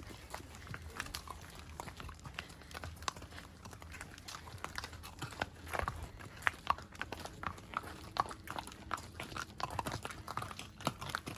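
Horses' hooves clopping in irregular knocks, which come more often from about halfway through.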